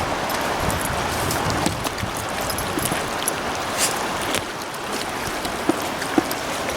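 Creek water rushing steadily, with a few short sharp splashes scattered through it.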